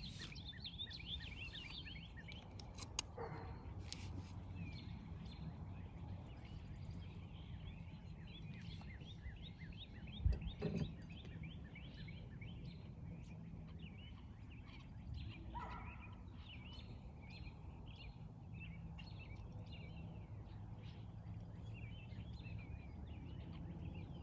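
Birds chirping in the background, many short calls over a low steady hum, with a single sharp knock about ten seconds in and a few faint clicks.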